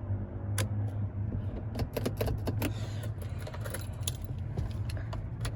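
The box truck's 6.0-litre GM Vortec V8 idling as a steady low hum heard from inside the cab. Irregular small clicks and light jingles sound over it as the cab controls are handled.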